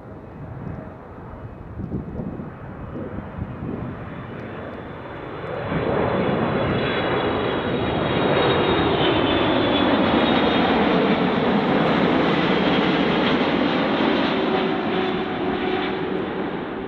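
Airliner on short final approach passing low overhead: its engine noise swells sharply about five seconds in, holds loud with a whine that slides down in pitch as it goes by, then begins to fade near the end.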